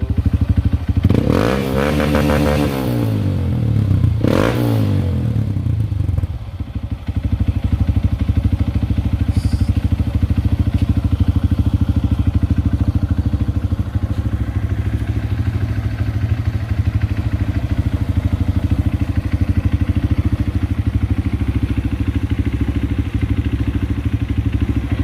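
Honda CRF150L single-cylinder four-stroke engine through a Norifumi Rocket 4 aftermarket exhaust. It is revved up and back down about a second in, blipped once about four seconds in, then settles into a steady idle with an even beat.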